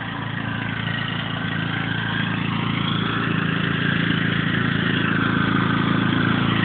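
Tractor engine running steadily, growing gradually louder over the few seconds.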